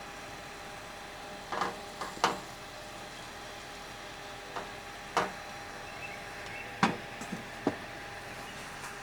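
About eight short, sharp knocks and clacks of hard objects being handled, spaced irregularly through the middle of the stretch, over a steady faint hum.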